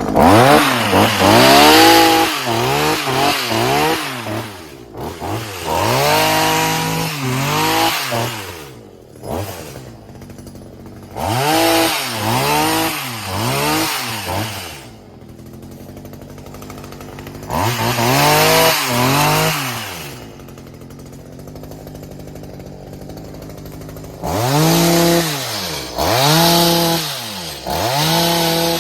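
Stihl HS45 hedge trimmer's two-stroke engine revved again and again, its pitch climbing and falling with each blip of the throttle and dropping back to idle between bursts, with two longer idle stretches midway. It is running on a freshly rebuilt carburetor.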